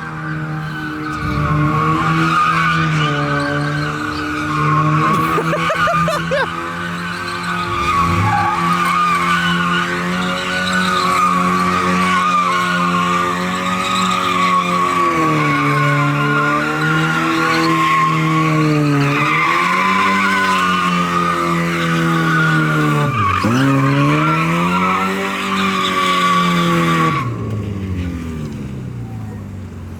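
Mazda Miata's four-cylinder engine held at high revs while its tyres squeal through donuts, the revs dipping and climbing back a few times in the second half. The tyre squeal stops a few seconds before the end while the engine keeps running; it sounds to an onlooker like the car is on its last breath.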